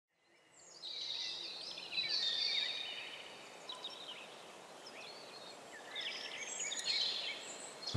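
Birdsong: quick chirps and short whistled glides over a faint hiss, starting about half a second in after a moment of silence.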